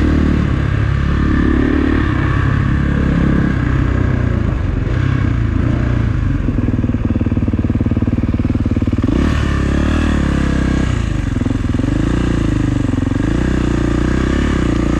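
Kawasaki KX450 dirt bike's single-cylinder four-stroke engine running while being ridden, its revs rising and falling, with a marked change in engine note about nine seconds in.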